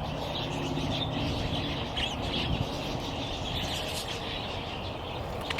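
A large flock of budgerigars chattering: a constant jumble of short chirps and warbles from many birds at once.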